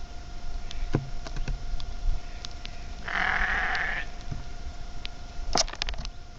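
A single rough animal call about a second long, midway through, over a faint steady tone and scattered light clicks.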